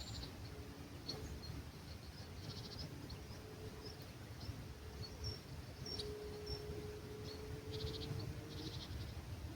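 Dawn birdsong in an olive grove: scattered short, high bird chirps and two brief buzzy trills over a low rumble of breeze, with a faint drawn-out hum in the background from about six seconds in.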